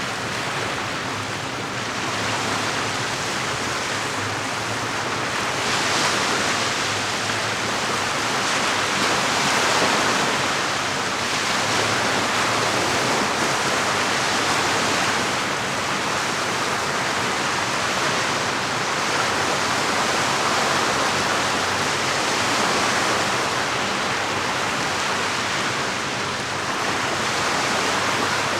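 Small lake waves washing against the shore: a steady rush of water that swells and eases every few seconds.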